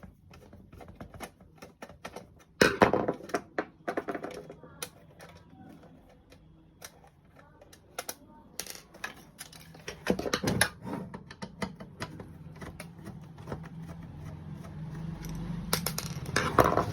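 Clicking and clattering of tools and small parts as a DD Free Dish set-top box's case is being opened, with louder clatter about three seconds in and again around ten seconds. A low hum builds toward the end.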